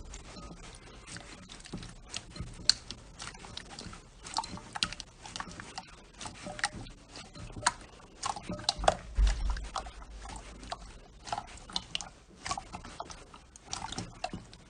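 Slime being squished and kneaded by hand, giving a dense, irregular run of wet clicks and small pops.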